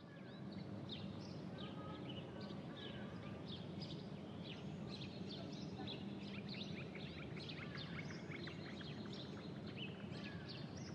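Many small birds chirping in quick, scattered calls over a steady low hum of background noise.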